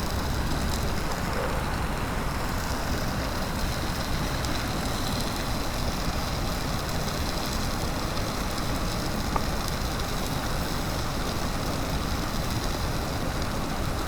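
Mountain stream rushing steadily, with one faint click about nine seconds in.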